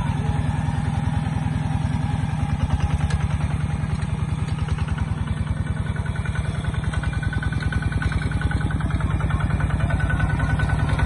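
Single-cylinder Kubota ZT140 diesel engine of a walking tractor running steadily, with fast, even firing pulses.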